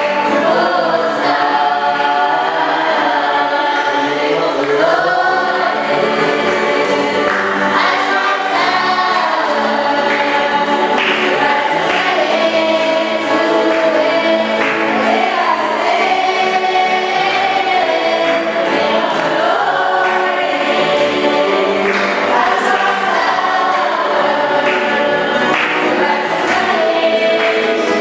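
A choir singing a hymn, many voices holding long sustained notes together.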